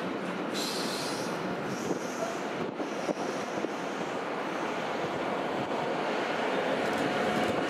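Freight trains passing on steel rails: a steady rush of wheel-on-rail noise from rolling wagons, with faint high squeals in the first few seconds. The sound grows louder near the end as an electric locomotive hauling a container train approaches, and a faint steady whine comes in.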